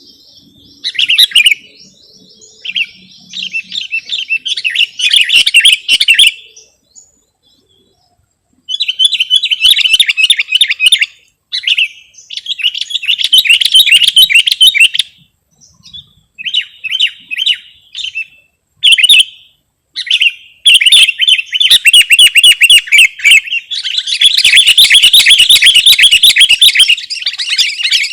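Sooty-headed bulbul (kutilang) calling in loud runs of rapidly repeated high notes, bursts of one to a few seconds separated by short pauses, with a longer, denser run near the end.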